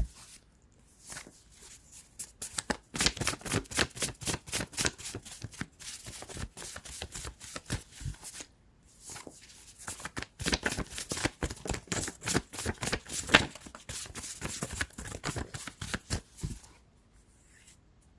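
A deck of tarot cards being shuffled by hand, a rapid run of crisp card clicks in two long bouts with a brief pause about halfway through, stopping near the end.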